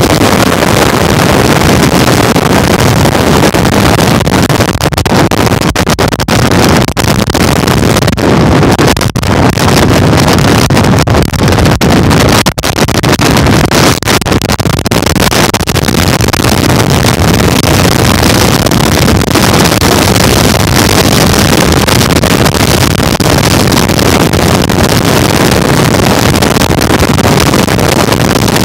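Loud, steady rushing wind buffeting the microphone of a moving rider, with brief lulls now and then.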